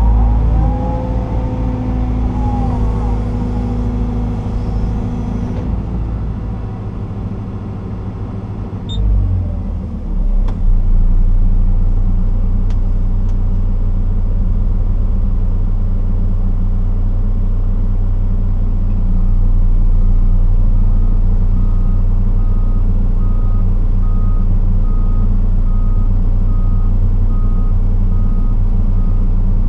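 Liebherr R926 excavator's diesel engine running, heard from inside the cab, with a bending hydraulic whine during the first few seconds as the machine works. About two-thirds of the way in, a reversing alarm starts beeping at a steady rhythm over the engine.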